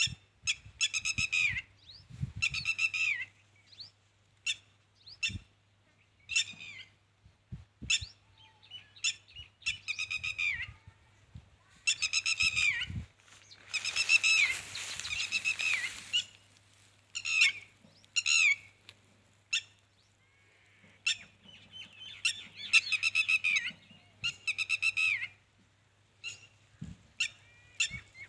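A bird calling repeatedly: bouts of harsh, rapidly pulsed calls about a second or two long that drop in pitch at the end, with short single chirps in between.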